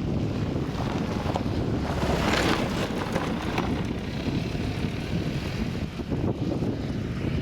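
Wind buffeting the microphone over the low, steady running of a Massey Ferguson tractor and McHale baler working in the field, with a louder gust about two seconds in.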